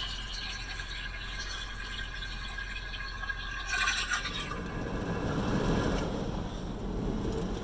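Automatic car wash spraying water onto the car, heard from inside the cabin. A steady hiss gives way about four seconds in to a deeper, louder rush of water against the body and roof.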